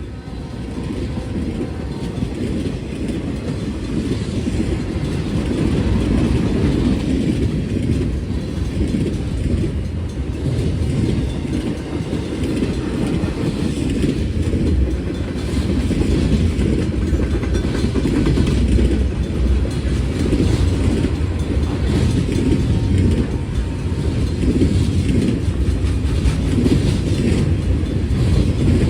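A train rolling past: steady rumble of wheels on the rails with some clickety-clack, growing gradually louder.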